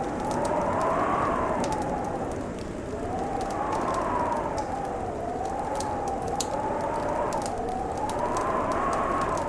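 Wind howling, its whistling pitch rising and falling every couple of seconds, over a crackling fireplace fire with many small sharp pops throughout.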